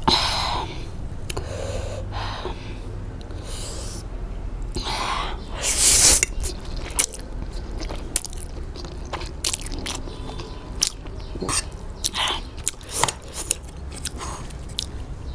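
A person chewing and biting food close to the microphone, with crunching bites and wet mouth sounds, and one louder rush of sound about six seconds in.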